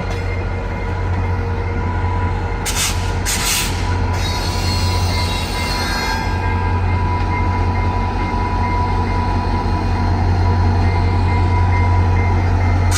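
VIA Rail passenger train rolling past, a steady drone with thin, steady high wheel-squeal tones over it. Two short bursts of hiss come about three seconds in.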